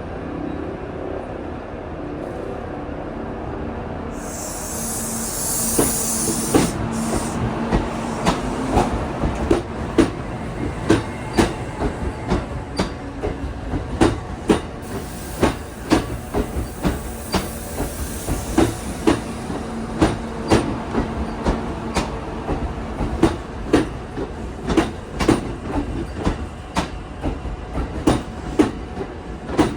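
Kintetsu 30000 series Vista Car train pulling out of the station: a hiss of air about four seconds in, then the wheels clicking rhythmically over the rail joints as it picks up speed.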